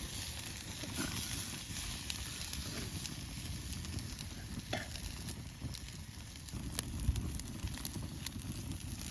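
Oysters cooking over a campfire, a steady sizzling hiss broken by scattered small crackles and pops.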